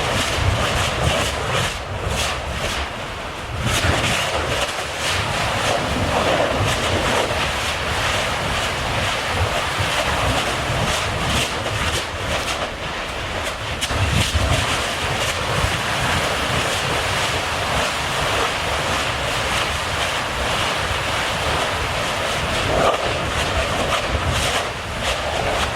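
A volcanic fissure erupting and spattering lava: a steady rushing noise with low rumbling, broken by many short cracks and bursts.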